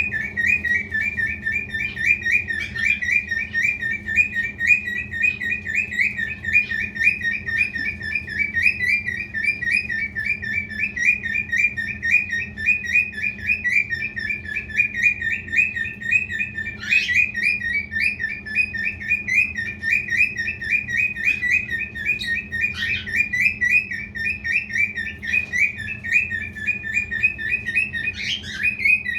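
Male lutino cockatiel chirping in a fast, unbroken run of short notes at much the same pitch, broken by a few louder calls that swoop down in pitch, over a faint steady hum.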